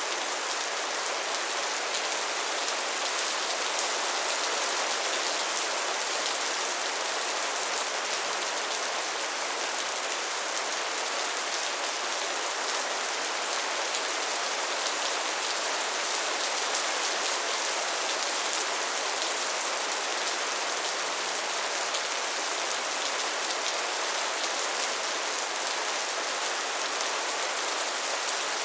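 Steady, heavy rain falling on a tin roof: a dense, even patter of drops on sheet metal that keeps up without a break.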